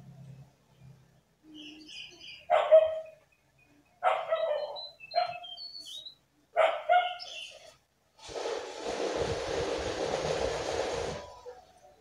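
Jongkangan bird giving short, sharp, bark-like calls in several separate bursts. About eight seconds in, a harsh hissing noise lasts about three seconds.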